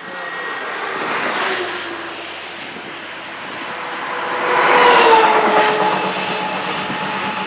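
Traffic passing on the highway: the noise swells about a second in, then a vehicle goes by close about five seconds in, its pitch dropping as it passes.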